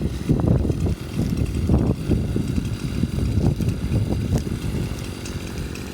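Wind buffeting the phone's microphone outdoors, an uneven low rumble coming and going in gusts, easing off near the end.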